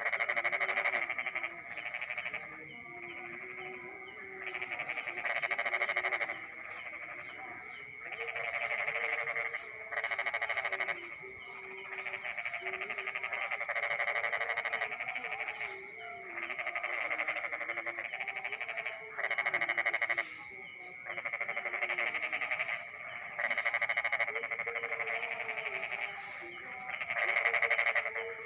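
Night chorus of frogs calling in rattling bouts of one to two seconds that repeat every couple of seconds, over a steady high-pitched insect trill.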